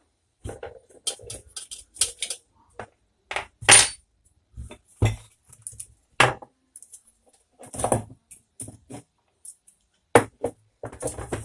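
Irregular metallic clinks and knocks of a stand fan being dismantled by hand, as screws and metal parts are handled and set down, with the loudest knock about four seconds in.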